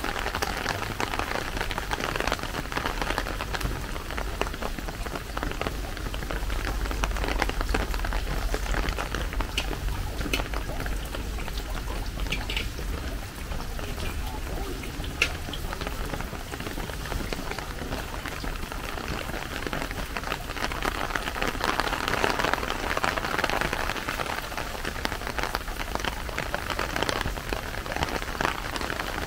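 Steady rain falling, with many single drops ticking close by and one louder tap about halfway through.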